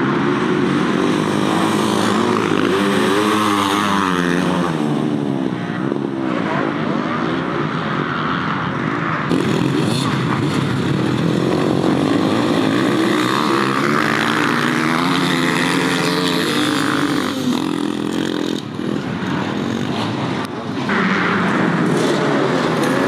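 Several motocross bikes racing, their engines overlapping and repeatedly revving up and dropping back as the riders accelerate and shift.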